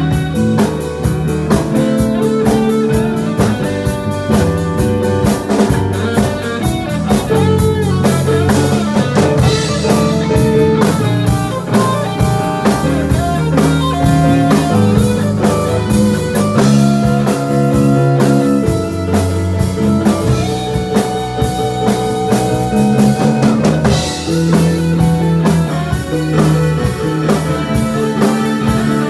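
A band playing loud live music through a PA, with guitar and drum kit.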